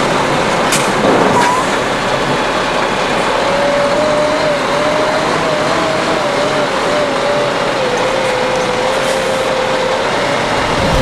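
Steady vehicle noise from a heavy truck running. A faint wavering tone sits in the background from about three seconds in.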